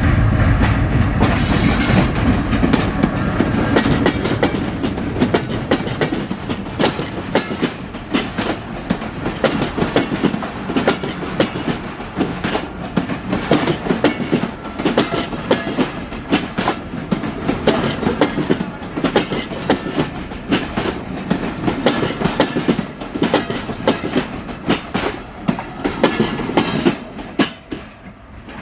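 Diesel-hauled passenger train passing close by. The locomotive's engine rumbles loudly at first, then a long string of coaches clatters over the rail joints in rapid clicks and clacks. The sound drops away near the end as the last coach goes by.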